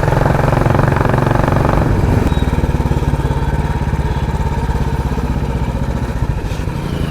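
Royal Enfield Classic 350's single-cylinder engine running through a loud aftermarket 'helicopter' exhaust, a steady thumping beat that eases off about two seconds in as the throttle is backed off.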